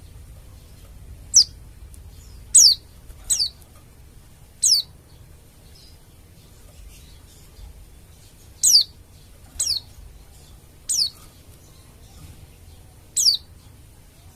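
Pleci (white-eye) giving sharp, high calls, each a quick downward sweep, eight in all at uneven intervals, over a faint low hum.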